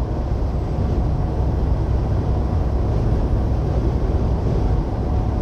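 Semi truck driving at highway speed, heard from inside the cab: a steady low rumble of engine and road noise with a faint steady whine.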